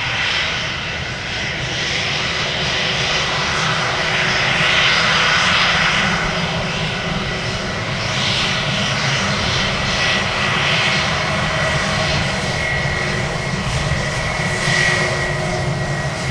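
Airliner jet engines running, a continuous rumble with a thin steady high whine, swelling and easing in loudness.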